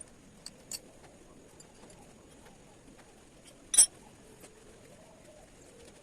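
Metal clinks of tools and motorcycle front-fork parts being handled during a fork oil change: two light clicks near the start and one loud, ringing clink about four seconds in.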